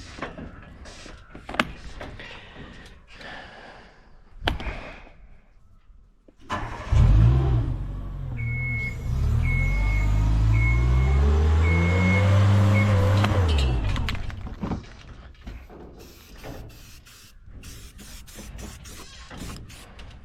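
A powered work lift's motor starts about a third of the way in and revs up with rising pitch as the lift moves, then falls away after about seven seconds. Over it, a motion alarm gives five short beeps about a second apart. Before that there are only a few light knocks.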